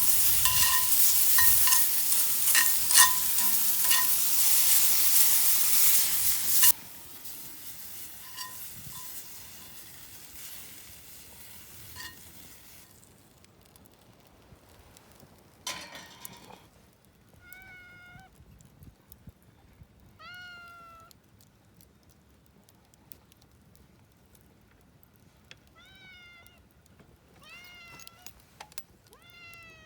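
Food sizzling loudly on a fire grill over a wood fire, with scattered pops, cutting off abruptly after about seven seconds. In the second half a cat meows about five times, each a short rising-then-falling call.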